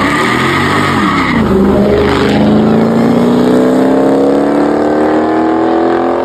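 Car engine accelerating hard, its pitch rising steadily for about four seconds, after a brief high squeal at the start.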